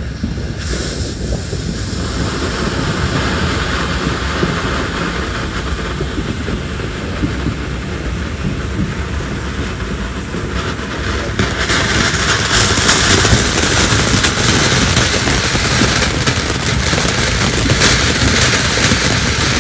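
Ground firework hissing and crackling steadily, growing louder and hissier a little past halfway through.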